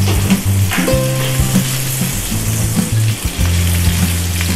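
Gola kababs shallow-frying in oil in a non-stick grill pan, sizzling steadily, with a silicone spatula scraping now and then as they are turned.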